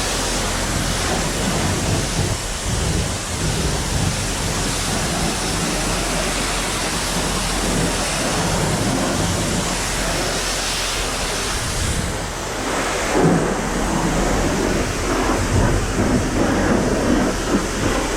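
High-pressure water spraying from a car-wash pressure wand, a steady loud rushing hiss over a low rumble, typical of rinsing the car before the soap wash. It dips briefly about twelve seconds in.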